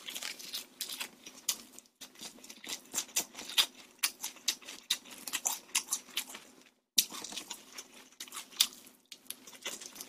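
Close-miked chewing of glazed fried chicken (dakgangjeong): a run of irregular smacking and crunching mouth clicks, broken by short pauses about two and seven seconds in.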